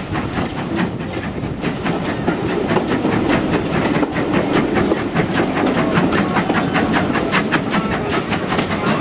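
Steam train running along the line, heard from on board, with a fast, even beat of sharp knocks over a steady rumble.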